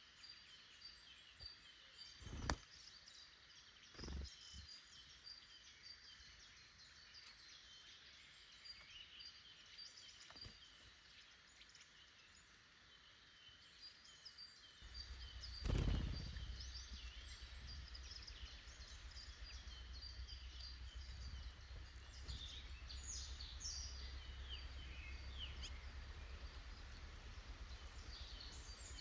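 Forest songbirds singing and calling: a dense, continuous run of short chirps and warbles. A couple of sharp knocks come a few seconds in, and a louder thump about halfway through is followed by a low steady rumble.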